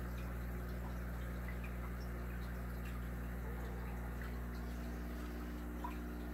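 Aquarium water trickling and dripping over a steady low equipment hum, with a few faint small ticks.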